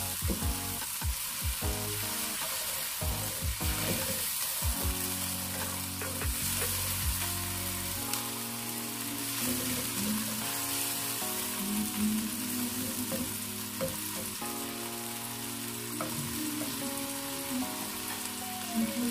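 Diced tomato, onion and garlic sizzling in hot oil in a nonstick wok, with a spatula stirring and scraping the pan now and then, mostly in the first half.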